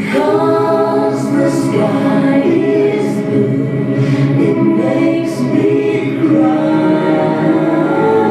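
Choral music: several voices singing long held notes together, a cappella.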